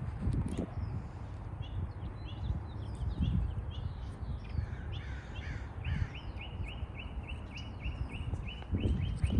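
Small birds calling outdoors: scattered chirps, then one bird repeating a short note about three to four times a second through the second half, over a steady low rumble.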